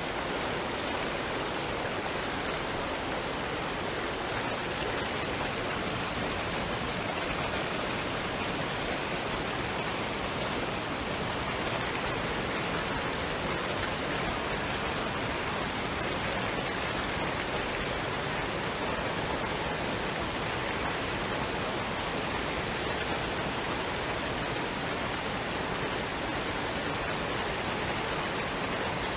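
Waterfall and stream water rushing in a steady, even hiss with no changes.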